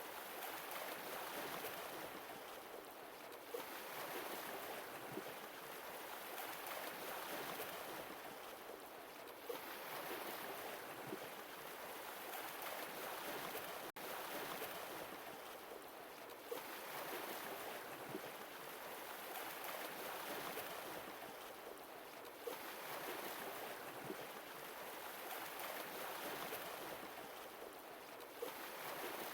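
Sea waves washing onto a shore, a steady surf rush that swells and recedes about every six seconds.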